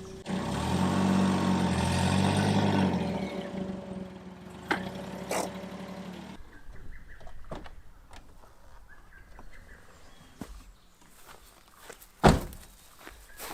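A vehicle's motor runs loudly for a few seconds, then fades, and its steady hum cuts off suddenly about six seconds in. Near the end comes one sharp thunk, like a car door shutting.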